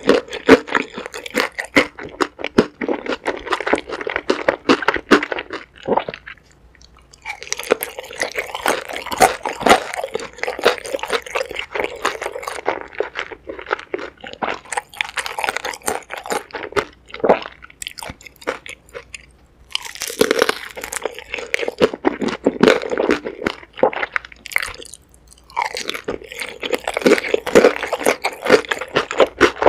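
Close-miked eating sounds of a person biting and chewing a sauced dumpling: crunchy, wet chewing in runs, broken by short pauses every five or six seconds.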